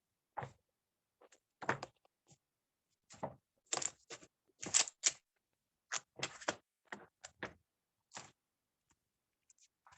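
About a dozen irregular knocks and clicks of handling close to the microphone, some louder than others, with nothing between them.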